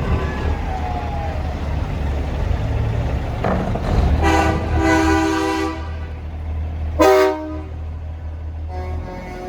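Semi-truck air horns blowing over the steady low rumble of diesel engines: a long chord-like blast starting about three and a half seconds in, a short, loud blast about seven seconds in, and another horn coming in near the end.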